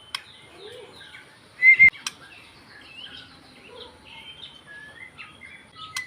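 White-rumped shama (murai batu) singing a varied string of short whistles and chirps, with one much louder note and a knock about one and a half seconds in, and a few sharp clicks.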